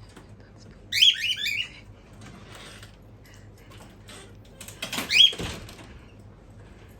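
Cockatiels calling: a quick run of high chirps, each sliding down in pitch, about a second in, and a shorter burst of the same around five seconds in. These are excited calls from the chicks at the sight of their mother.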